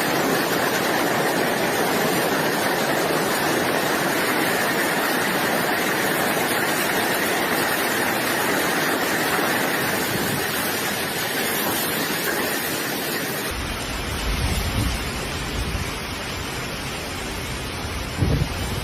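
Steady roar of hurricane-force wind and driving rain. About thirteen seconds in it changes to low, gusty wind buffeting the microphone, with a thump near the end.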